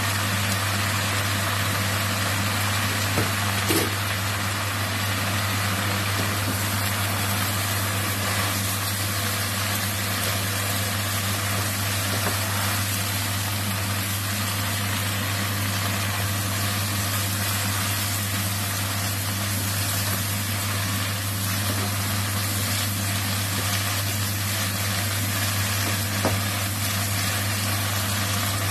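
Kangkong sizzling as it is stir-fried in a nonstick wok, over a steady low hum. A spatula knocks against the pan about four seconds in and again near the end.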